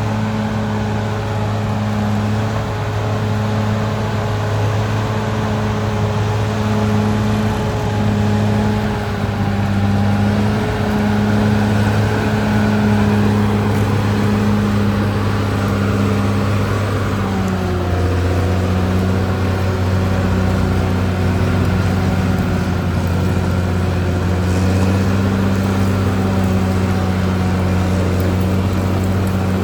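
Caterpillar D6R XL bulldozer's diesel engine running steadily under work. About halfway through, its pitch drops a little and holds lower.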